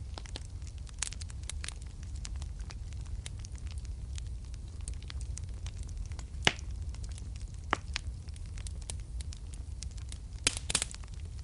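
Wood fire burning in a fireplace, with a steady low rumble of flame and scattered crackles and pops. The sharpest pops come about two thirds of the way through and as a quick cluster near the end.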